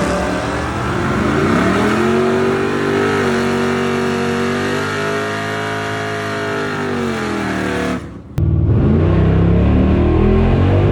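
Car engine revving: its pitch climbs about two seconds in, holds, then falls away near eight seconds, where the sound cuts off abruptly. After a brief dip, a different, deeper sound takes over.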